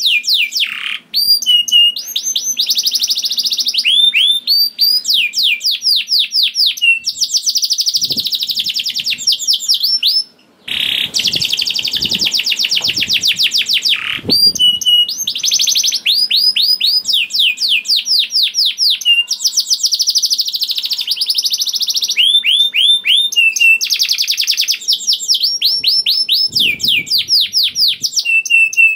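Domestic canary singing a long, continuous song: rapid trills of quick down-slurred notes alternating with buzzy rolling phrases, the kind of long 'ngerek' trill prized in a singing canary. The song breaks off briefly about ten seconds in, then carries on.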